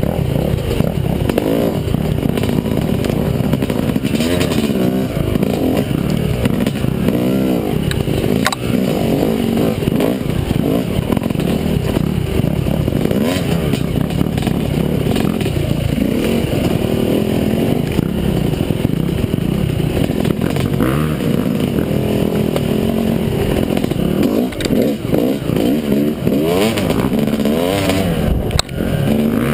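Yamaha motocross bike engine running hard under riding, its pitch rising and falling again and again as the throttle is opened and closed. A sharp click is heard about eight seconds in.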